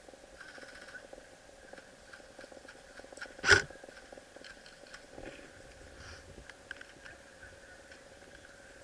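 A single sharp crack about three and a half seconds in, over faint rustling and scattered light ticks.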